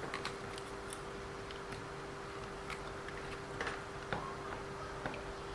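Faint, scattered light ticks and clicks of small tools and metal parts being handled while working on an RC car, over a steady faint hum.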